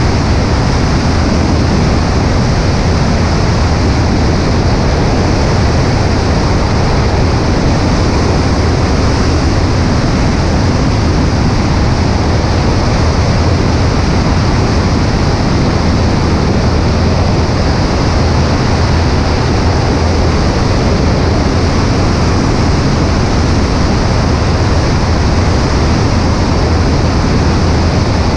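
Cessna 140A light aircraft's engine drone under a steady, loud rush of wind on a wing-mounted microphone, unchanging throughout.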